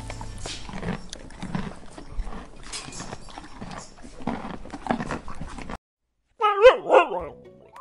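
Horses grazing: an irregular crunching and rustling of grass being torn and chewed. After a brief gap near the end, a husky gives two short, loud, wavering whining calls that rise and fall in pitch.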